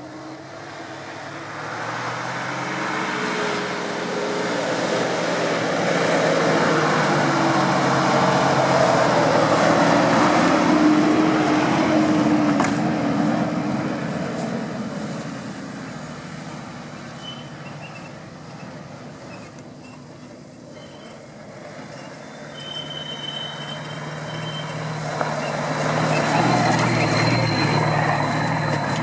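Off-road 4x4 engine working hard under load, swelling up to a peak about ten seconds in, easing off, then rising again near the end.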